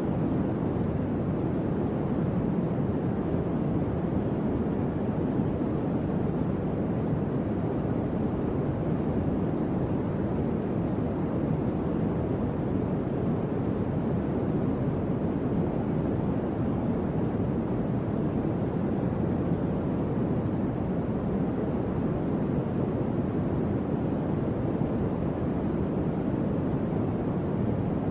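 Electric fan running: a steady, even whoosh of moving air, strongest in the low and middle range, with no change in level.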